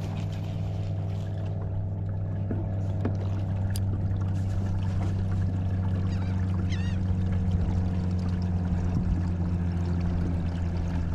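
Boat motor running steadily at low speed, a constant low hum with even overtones.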